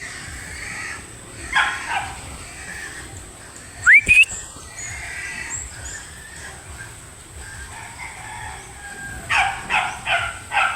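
Chickens calling: a couple of squawks, a sharp rising call about four seconds in, and a quick series of four calls near the end.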